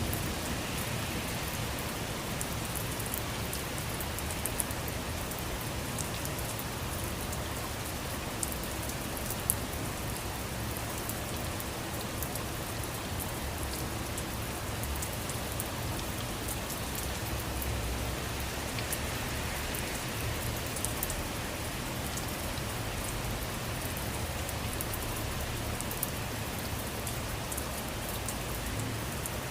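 Steady rain falling, with many small drops ticking on a surface and a few louder single drops hitting around 5, 8 and 9 seconds in.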